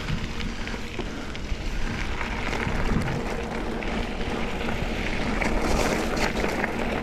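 Mountain bike rolling along a dirt double-track trail: steady tyre and trail noise with light rattles, and wind rumbling on the microphone.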